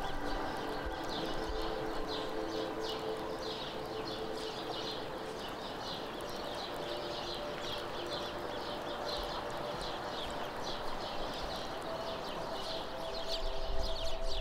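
Tigris River water flowing in a steady hiss, with a bird calling over it in short high chirps about twice a second.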